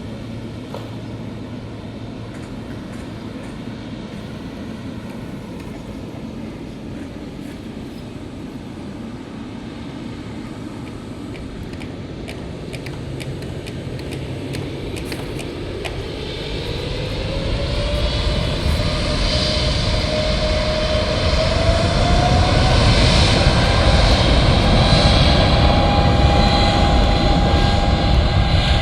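Saudia jet airliner's engines spooling up to takeoff thrust: a steady low rumble, then from about halfway a whine that rises in pitch as the engines grow louder, levelling off into a loud steady whine over a deep rumble near the end.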